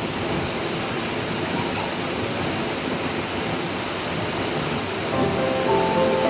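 Waterfall rushing: a steady, even hiss of falling water. Background music with held notes comes in about five seconds in.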